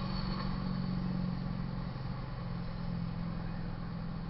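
Steady low hum of an idling motor vehicle engine.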